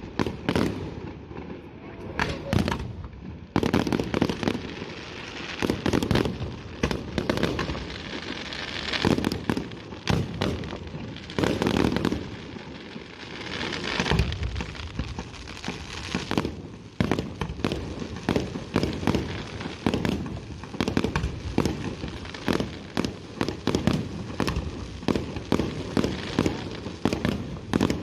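Aerial fireworks display: shells bursting one after another, many sharp bangs in quick, irregular succession, several a second at times.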